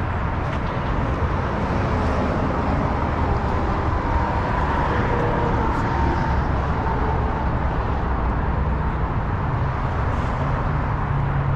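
Steady low rumble of a moving vehicle, with wind and road noise.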